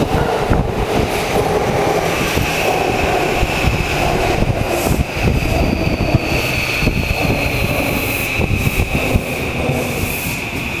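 Yamanote Line commuter train pulling into the station: rumble of wheels on rail as the cars pass close by, with a steady high-pitched squeal from about two seconds in and a faint falling whine as the train slows.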